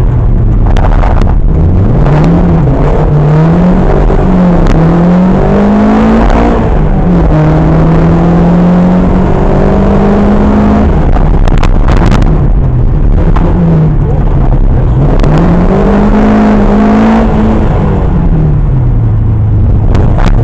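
Historic rally car's engine, heard from inside the car, at full throttle on a special stage: the revs climb through several quick gear changes in the first few seconds, hold high and steady, then drop for a corner about halfway with a few sharp cracks, before climbing and falling once more near the end.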